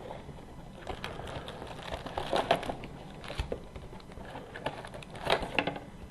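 Trading-card hobby box being opened and its wrapped packs handled: irregular crinkling of packaging with small taps and clicks of cardboard.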